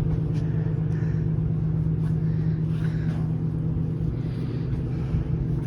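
Steady low hum of a car ferry's engines and machinery, heard inside the passenger seating area.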